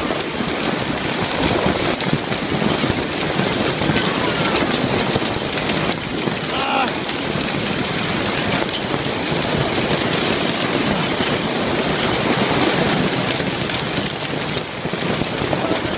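Hailstorm: hail and heavy rain pelting down steadily, a dense, unbroken patter of small impacts.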